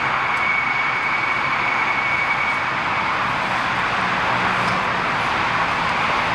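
Steady running noise of machinery, with a faint thin whine for the first half.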